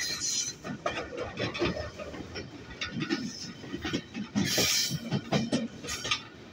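Train running along the line: wheels clattering on the rails with the carriage rattling, in an irregular run of clanks.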